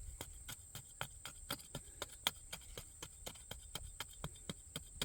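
Hand tool chopping and scraping into hard, compacted garden soil: quick, uneven sharp strikes, several a second.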